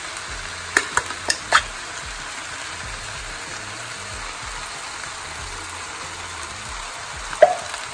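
Onions, peppers, potatoes and chickpeas frying in a pan, a steady sizzle, with a few sharp taps about a second in while a tin of chopped tomatoes is emptied over them, and one louder knock near the end.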